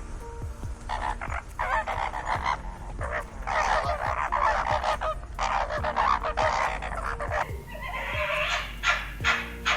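Harsh animal calls repeated in quick succession, with a steady low hum beneath.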